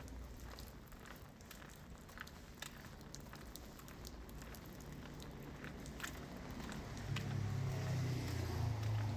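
Rain falling, with scattered drops tapping and ticking. A low rumble swells about seven seconds in.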